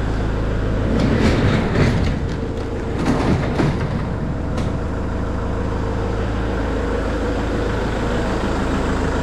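Kubota L6060 tractor's diesel engine running steadily, with rattles and knocks about a second in and again around three seconds in.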